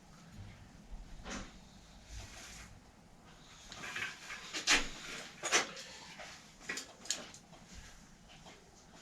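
Scattered clicks and knocks of objects being handled, loudest twice about halfway through.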